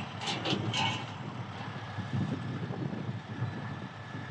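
Heavy truck engine running steadily, with about four sharp clicks in the first second.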